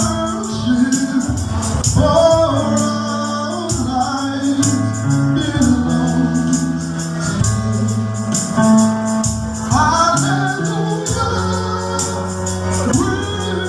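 Gospel praise-and-worship music: a choir and lead singers over a band with bass and keyboard, and a tambourine shaken in time.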